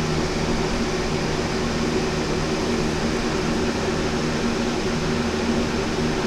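Steady hum of a running electric blower motor, with an even airy hiss and a constant low drone.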